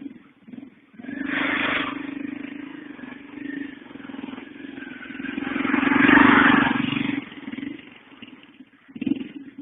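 A motor vehicle engine running, with a steady hum that builds to its loudest about six seconds in and then falls away, as when a vehicle passes close by.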